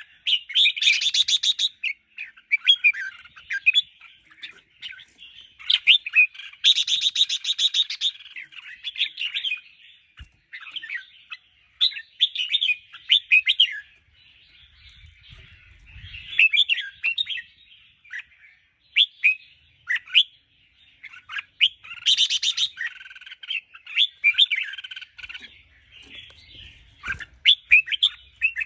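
Red-whiskered bulbuls singing: phrase after phrase of quick, warbling chirps, with a harsh rasping note breaking in three times. It is the lively song that Thai bulbul keepers play to rouse their own birds.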